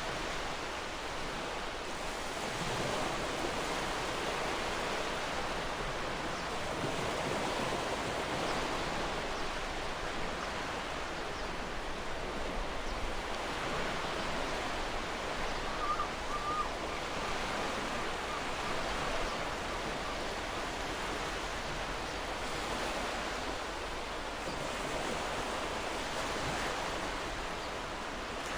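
Gentle ocean waves washing ashore, a steady surf hiss that swells and eases every few seconds. A faint, brief bird call about halfway through.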